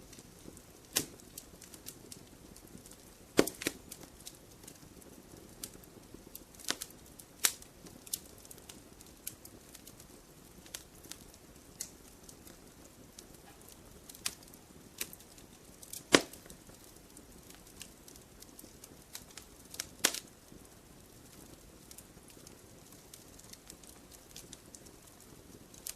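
Campfire burning, with irregular crackles and sharp pops over a soft steady hiss; the loudest snaps come about three and a half seconds in, about sixteen seconds in and about twenty seconds in.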